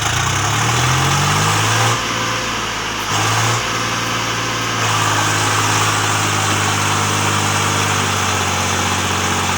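Swaraj 735 FE tractor's three-cylinder diesel engine pulling on an uphill climb. It revs up in the first second or so, dips briefly twice, then runs steadily under load.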